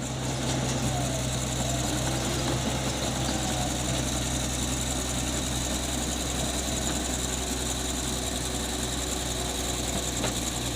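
Bulldozer's diesel engine running steadily at a low, even hum, starting abruptly.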